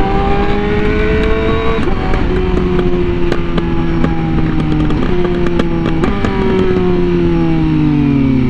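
Honda Fireblade RR-R SP's inline-four engine running through a titanium SC-Project exhaust while riding. The revs climb and then drop sharply with a gear change about two seconds in. The pitch steps up suddenly twice around the middle, then falls steadily near the end.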